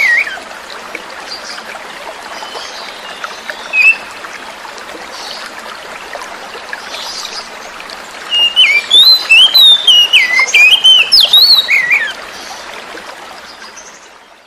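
Oriental magpie-robin singing quick phrases of whistled notes that jump up and down in pitch, over a steady trickle of running water. A long run of song comes about eight seconds in, then everything fades out near the end.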